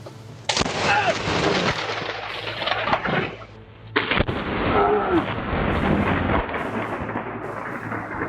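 Two close lightning strikes, each a sudden loud crack of thunder that dies away over about three seconds, the second coming about three and a half seconds after the first.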